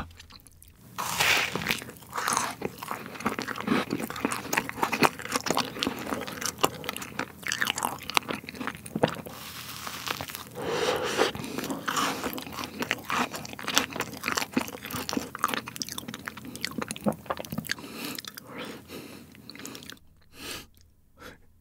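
Close-miked biting and chewing of a fruit sandwich of soft white bread, whipped cream and strawberries, a dense run of crunching and chewing noises starting about a second in and easing off near the end. The fruit inside is still partly frozen.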